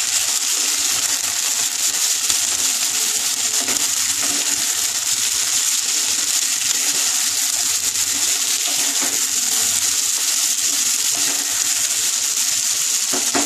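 Cubed pumpkin, potato and chickpeas sizzling in hot mustard oil in a frying pan while being stirred with a wooden spatula: a steady, even crackling sizzle.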